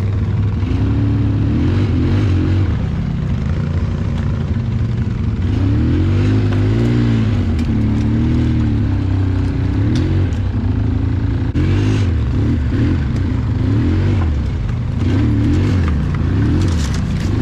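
ATV engine being ridden with the throttle worked on and off, its pitch rising and falling again and again.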